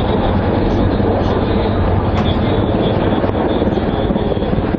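Helicopter in flight: loud, steady rotor and turbine noise.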